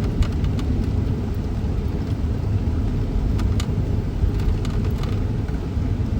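Road and engine noise inside a moving car's cabin: a steady low rumble, with a few scattered light clicks.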